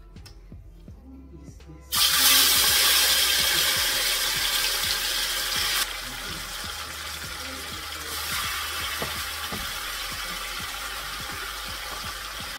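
Seasoned curry chicken hitting hot oil in a pot and sizzling loudly. The sizzle starts suddenly about two seconds in, eases a little about six seconds in, and keeps going as more pieces are stirred in.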